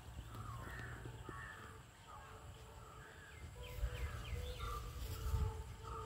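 Birds calling in short, repeated chirps, with a run of about five quick falling notes around four seconds in. A low rumble sits underneath.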